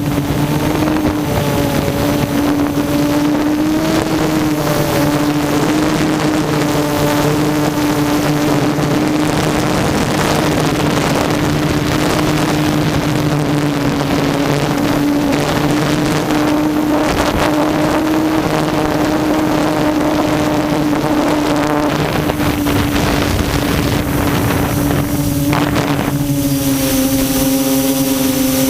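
Quadcopter's electric motors and propellers whining steadily at one slightly wavering pitch, with wind noise on the microphone of the onboard GoPro.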